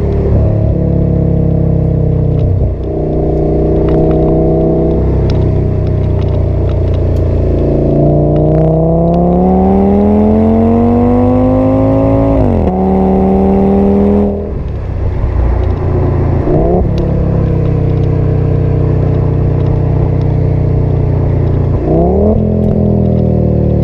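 2008 Audi S6's 5.2-litre V10 through a partially resonated Milltek exhaust, heard from inside the cabin on the move. The engine note climbs steadily for about four seconds under a long pull and then drops sharply at a gear change. It eases off briefly a little later, and twice near the end the revs give a short quick rise.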